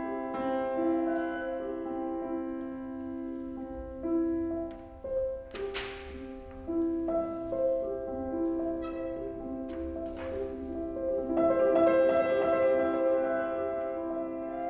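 Piano trio of piano, violin and cello playing contemporary chamber music: sustained, held chords with piano notes. Two short noisy swishes come about six and ten seconds in, with a few light clicks between them.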